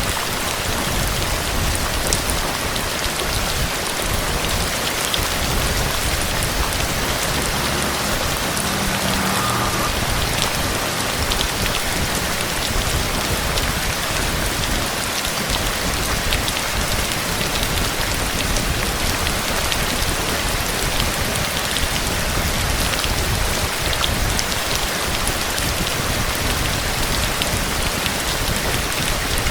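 Heavy rain falling steadily: an even, dense hiss with scattered sharp drop impacts.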